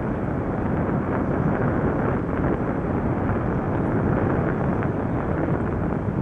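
Wind buffeting the microphone of a rider on a moving bicycle: a loud, steady rush of low noise.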